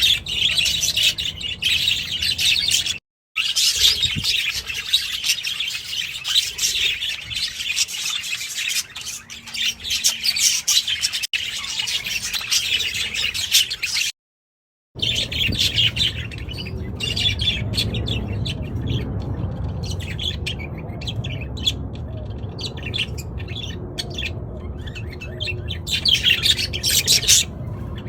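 A flock of budgerigars chattering and warbling in a dense, loud chorus of chirps. The sound cuts out briefly twice, and after the second gap the chirps are sparser over a low hum, rising again into a louder burst near the end.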